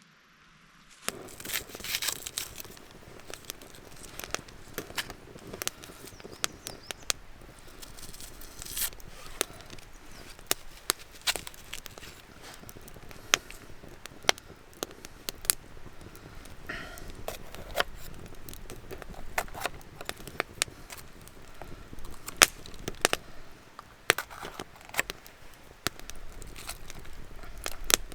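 Dry twigs and forest-floor litter crackling and snapping in irregular, sharp clicks, as wood is handled, broken or stepped on.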